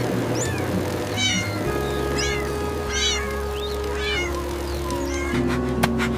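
Kitten meowing, about five short high-pitched calls, over background music. A quick run of clicks comes near the end.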